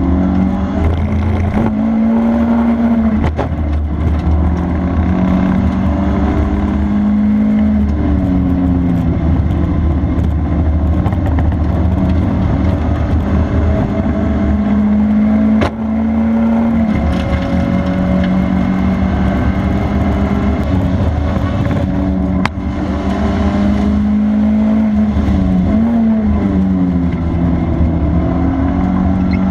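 Honda Integra DC2's four-cylinder engine driven hard, its pitch climbing steadily under acceleration and falling away again several times over a steady low road rumble. Two sharp clicks in the second half, each with a brief dip in the sound.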